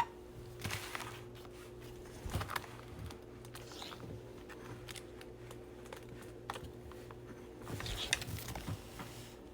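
Faint scattered clicks and short rustles of small objects being handled, a little busier about two seconds in and again near the end, over a steady low hum.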